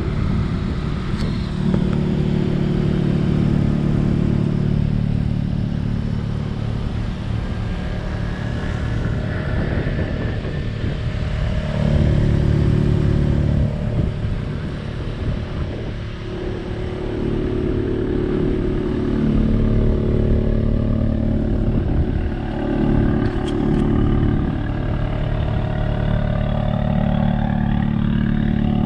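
Volkswagen Golf GTI TCR's tuned turbocharged 2.0-litre four-cylinder idling steadily through a Milltek 3-inch downpipe with no particulate filter. The tone wavers briefly a little after twenty seconds in.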